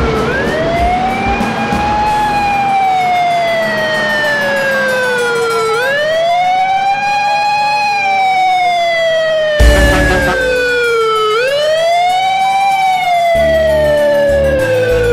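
Emergency vehicle siren wailing: the pitch rises quickly, then falls slowly over about five seconds, three times over. A brief thump comes about two-thirds of the way through, with music faintly underneath.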